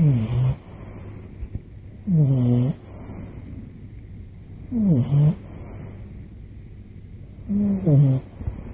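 Bulldog puppy snoring: four short, pitched snores, each about half a second long, coming about two and a half seconds apart with its breathing.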